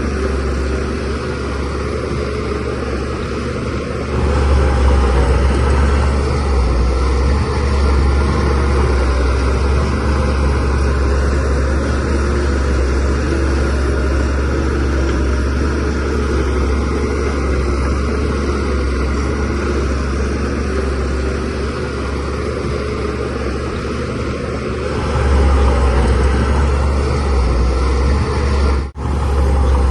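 DH17C3PRO bulldozer's diesel engine running steadily under load, with a deep steady hum. It grows louder about four seconds in and again near the end, and cuts out for a moment just before the end.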